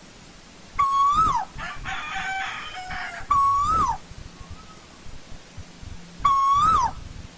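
Asian koel calling three times, evenly spaced about two and a half seconds apart. Each call is a loud, clear whistled note that holds, lifts slightly, then drops away. Between the first two calls is a quieter, rougher chattering sound.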